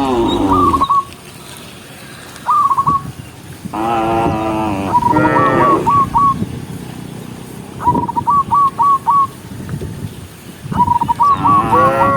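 Cattle mooing, one long call about four seconds in and another starting near the end. Between the calls come runs of three to five short, high whistled notes every few seconds.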